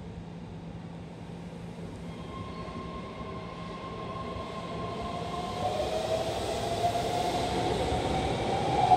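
Keihan electric train pulling into an underground station platform, its running noise growing steadily louder as it comes in. A whine rises in pitch from about halfway through.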